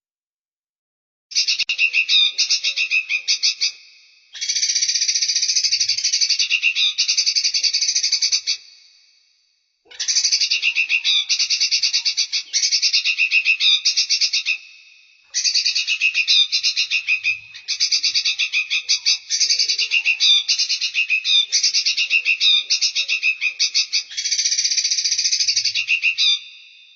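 Recorded songbird calls used as a masteran: bursts of rapid, trilled chattering lasting a few seconds each, broken by short pauses.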